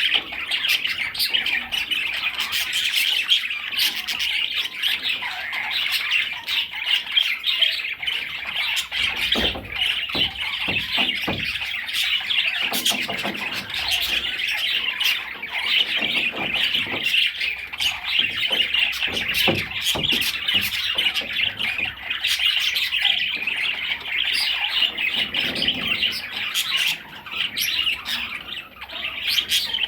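Budgerigar chattering and warbling without a break: a dense stream of high chirps and squawks, with scattered short clicks.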